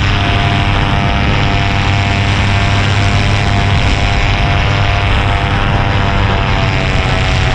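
Paramotor engine and propeller running at a steady cruise in flight, a constant drone.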